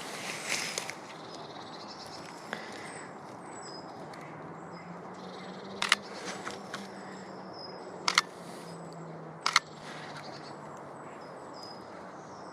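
Canon EOS R5 camera shutter firing a few times, single and quick double clicks spaced a few seconds apart, over short high thin bird calls repeating. A faint low hum runs through the middle.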